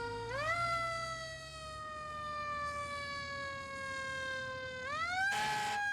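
Fire truck siren winding up, falling slowly in pitch, then winding up again near the end, with a short burst of rushing noise over it about five seconds in.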